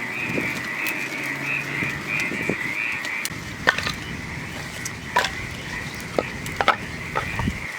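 Frogs calling in a fast pulsing chorus, loudest in the first few seconds. Several sharp clicks and knocks follow in the second half.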